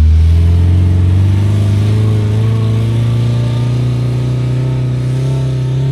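Motor vehicle engine running under load, its pitch rising slowly and steadily as it accelerates.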